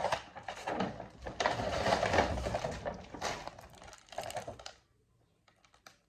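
Plastic grocery packaging rustling and crinkling as it is handled, in two long stretches and then shorter bursts, ending with a few light clicks.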